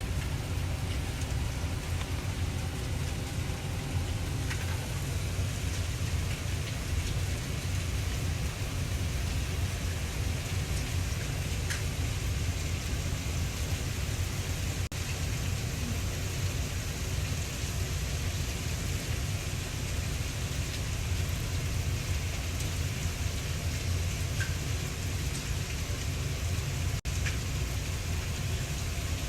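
Heavy rain falling steadily in a thunderstorm, a dense even hiss with a low rumble underneath throughout.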